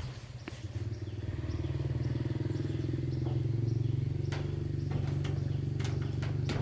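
A small engine running steadily at a low, even speed, with a few light knocks over it.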